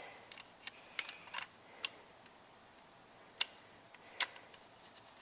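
A ring compressor being snugged up around a piston's rings with its tightening key, giving a few sharp, irregularly spaced metallic clicks; the sharpest comes about three and a half seconds in.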